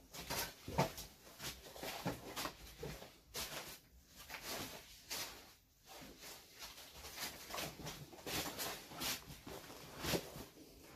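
Irregular light taps, clicks and rustles from objects being handled and set down.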